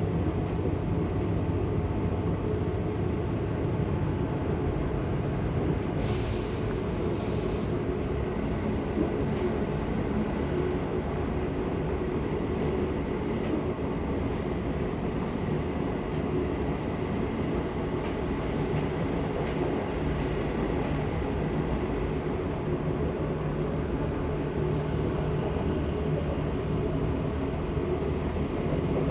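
Seibu 6000 series electric train heard from inside the car while running between stations: a steady rumble of wheels on rail with a faint motor hum. A few brief high-pitched squeals come about a quarter of the way in and again past the middle.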